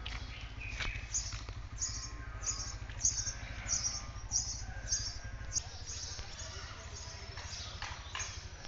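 A bird repeating a short, high chirp, about seven times at roughly two-thirds of a second apart, over a steady low rumble.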